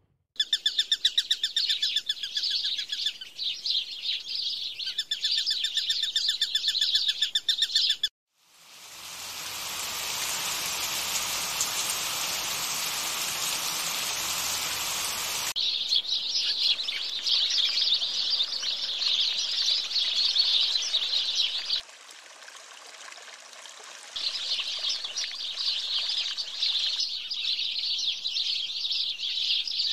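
Birds chirping in quick, evenly repeated trills, broken after about eight seconds by a sudden cut to a steady rushing hiss lasting about seven seconds, then cutting back to dense high chirping.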